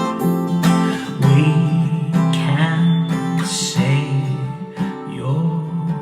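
Acoustic guitar playing, with a couple of sharp strums in the first second and then chords and notes left ringing.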